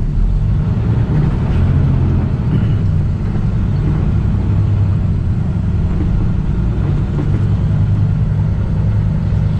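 Semi truck running, a steady low rumble with no breaks or changes.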